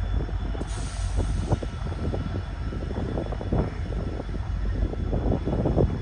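Passenger train pulled by a WDP4B diesel locomotive moving off: a steady low rumble with a running clatter of wheels and couplings, and a brief hiss about a second in.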